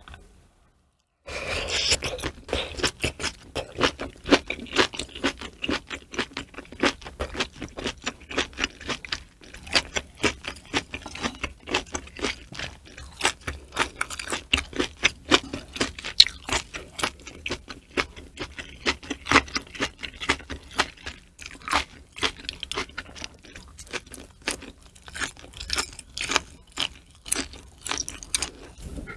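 Close-miked chewing of boiled cow udder slices and fresh vegetables from a hot pot, with many irregular crunches and mouth clicks. It starts after about a second of silence.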